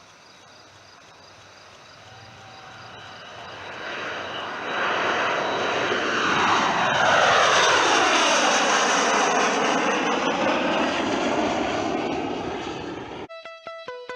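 Boeing MQ-25 Stingray's Rolls-Royce AE 3007N turbofan swelling as the drone approaches, then flying past with a falling whine as it moves away and fades. Near the end it cuts off suddenly to guitar music.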